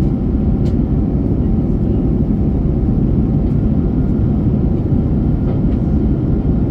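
Airliner cabin noise in flight: a steady low rumble of the jet engines and rushing air, with a faint constant tone over it.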